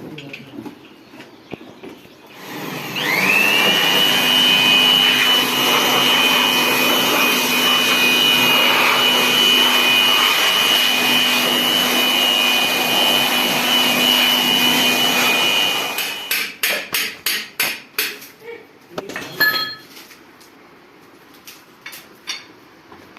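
An electric power tool's motor spins up with a rising whine and runs steadily for about thirteen seconds, then cuts off. It is followed by a quick run of sharp knocks.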